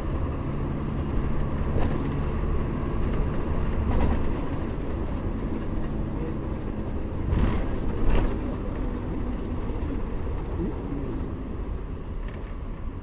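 Bus engine running with steady road rumble while the bus is moving. A few brief knocks and rattles come through, the strongest two about seven and eight seconds in.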